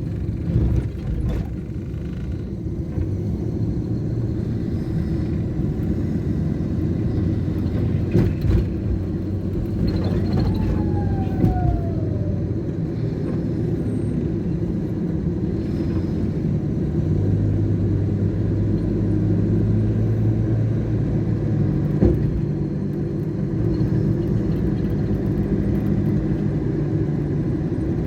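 City road traffic running steadily, with wind rumbling on the microphone. A short tone falls in pitch about ten seconds in, and there are a few sharp knocks.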